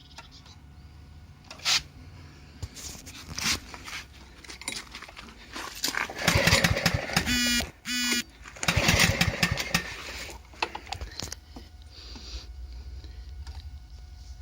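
Wolf rotary lawn mower's engine being pull-started with a freshly fitted ignition coil. A few sharp knocks come first, then two loud bursts about halfway through as it fires and catches. It then settles into a steady low running.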